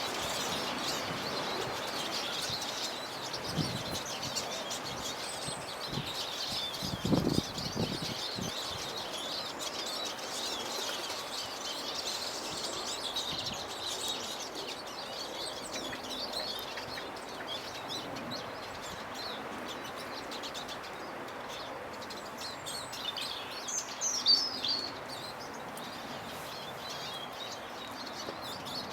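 Small garden birds, tits and finches, twittering and chirping continuously, with a louder burst of calls about three-quarters of the way through. A few soft knocks come about seven seconds in.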